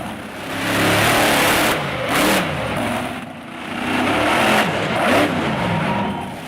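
Monster truck engine revving hard, its pitch climbing and falling in several swells as the throttle is worked on and off.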